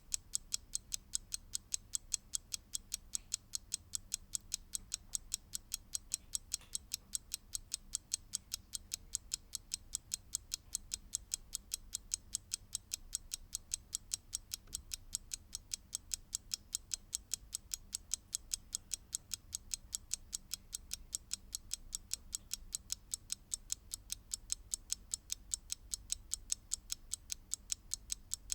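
Mechanical clock ticking: fast, even, crisp ticks, several a second, steady throughout.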